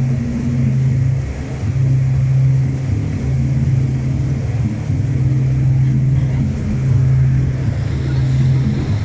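A boat's engine running steadily with a low, even hum that wavers slightly in pitch every second or two.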